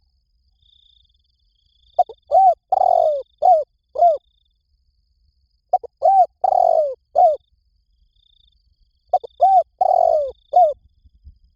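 Spotted dove cooing: three phrases about three and a half seconds apart, each a few short rising-and-falling coos around one longer, rougher coo. A faint high-pitched insect trill comes and goes between the phrases.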